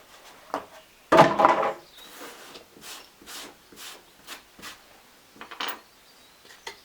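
Handling of the small parts and plastic packaging of a Dremel chainsaw sharpening kit: a louder, longer handling noise about a second in, then a string of light clicks and knocks.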